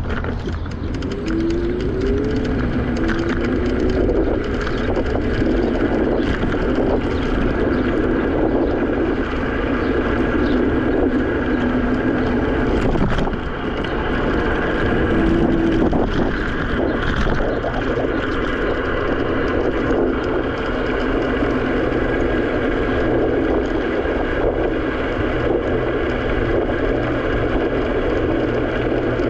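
Segway Ninebot electric scooter riding along, its steady running noise mixed with wind rushing over the microphone.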